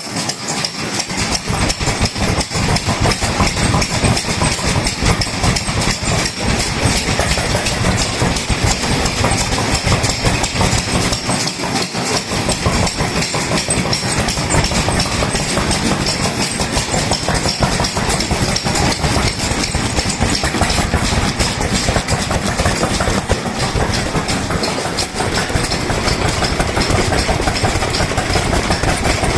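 Vintage Japanese kerosene stationary engine running steadily with a rapid, even chugging.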